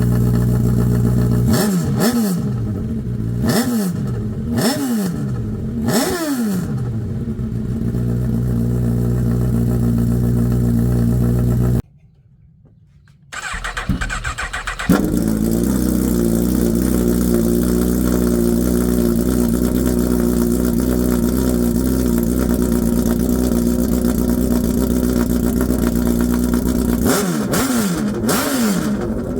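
Honda CB1000R inline-four motorcycle engine on an Arrow full-system exhaust, idling and blipped four times in quick succession near the start. About halfway through the sound drops out for a moment, then the engine idles steadily again and is blipped twice more near the end.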